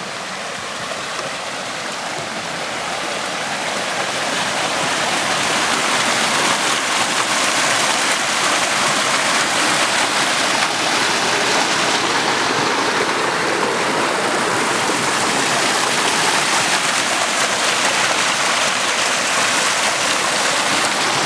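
Waterfall: a steady rush of falling water that grows louder over the first few seconds, then holds steady.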